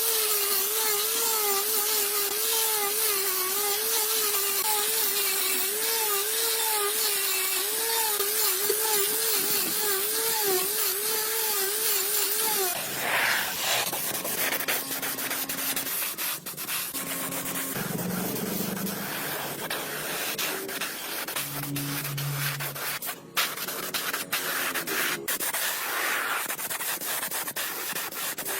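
A small power tool's motor whines with a pitch that wavers up and down as it is loaded. About halfway through it stops and gives way to rubbing, sanding or scraping on a part, with scattered sharp clicks.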